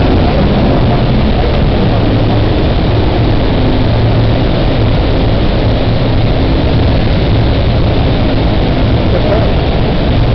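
Speedboat engine running steadily under way: a loud, even low drone over a continuous rushing hiss.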